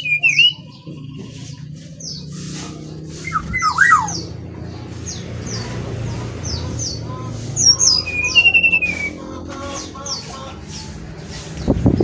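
Sikatan rimba dada coklat (brown-chested jungle flycatcher) calling: repeated short, falling high chirps with a few clear whistled notes, over a steady low hum.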